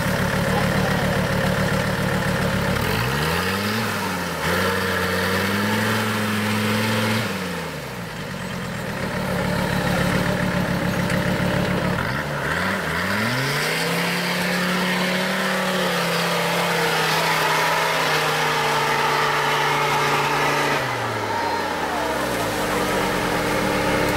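Off-road 4x4's engine revving up hard twice, each time held at high revs for several seconds while it climbs under load, then dropping back to lower revs.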